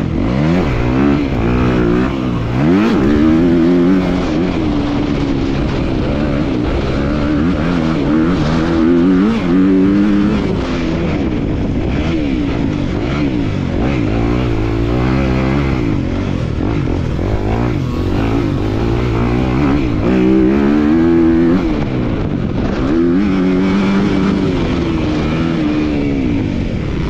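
250-class motocross bike engine revving hard and dropping back over and over, its pitch climbing and falling every few seconds as the bike accelerates, shifts and backs off around the track.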